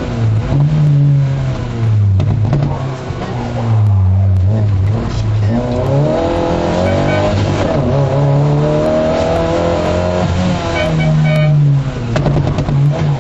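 MG F rally car's mid-mounted four-cylinder engine heard from inside the cabin at full stage pace, revving up through the gears and dropping back on shifts and lifts, with one long climb in pitch in the middle and a sudden drop near the end.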